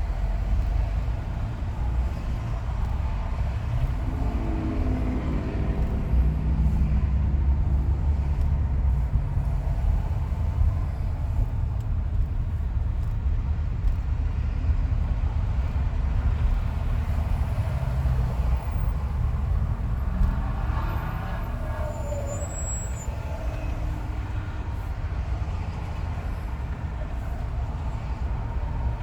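Car driving on a freeway: steady tyre and road rumble from inside the cabin, with a hum that rises in pitch about four seconds in and again about twenty seconds in.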